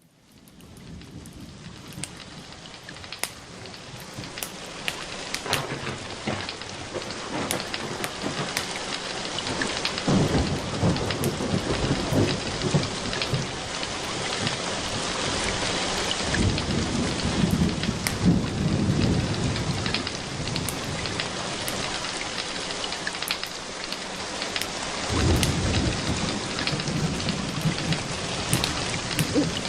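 Steady rain falling, fading in from silence at the start, with low rolling thunder swelling several times. Scattered sharp clicks run through it.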